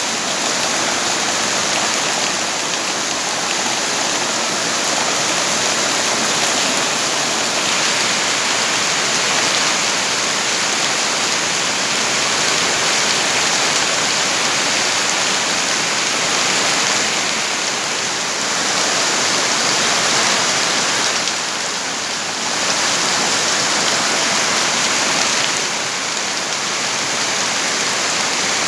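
Steady heavy rain falling, a dense even hiss that swells and eases slightly a few times.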